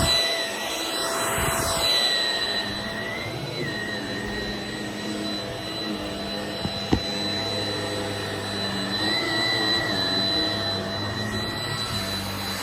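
Shark Rocket vacuum cleaner running steadily with a high whine whose pitch wavers slightly now and then. There is a single sharp click about seven seconds in.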